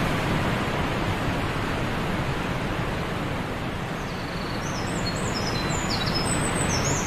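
Waterfall rushing: a steady, dense wash of falling water. Over it, in the second half, a run of short, high chirps.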